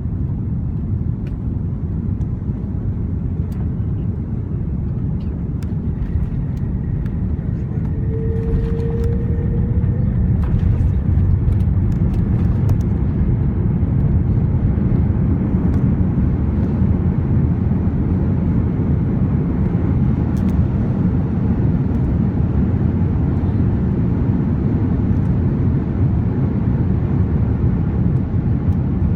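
Cabin noise aboard an Airbus A330-300 jetliner heard from a passenger seat: a steady low rumble that grows louder about ten seconds in, with a brief hum and a few light clicks near the middle.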